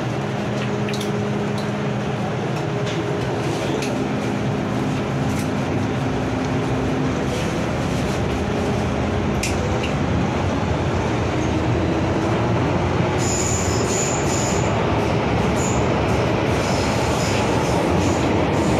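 Hong Kong MTR M-Train heard from inside the car, pulling away from a station and gathering speed: steady wheel-and-track rumble with a motor whine that rises in pitch and slowly grows louder. A brief high squeal comes about two-thirds of the way through.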